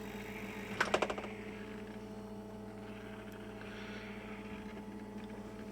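SC21F hermetic refrigeration compressor running as an air compressor with a steady hum, hot after about ten minutes of running. A short rattle of clicks comes about a second in.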